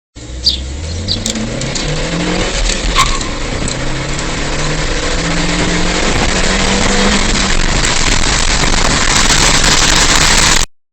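Opel Astra J petrol engine accelerating hard through the gears: the engine note climbs and drops back at each of several upshifts, while road and wind noise builds. The sound cuts off suddenly near the end.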